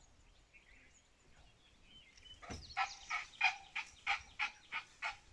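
A sharp click, then a bird calling the same short note over and over, about three calls a second, through the second half.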